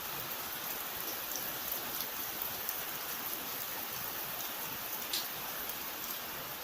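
Steady rain falling, an even hiss with scattered individual drops ticking on a surface, one a little sharper about five seconds in.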